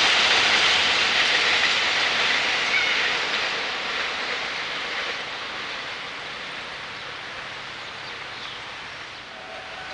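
A train running past on the rails, its wheel-on-rail noise fading steadily as it moves away.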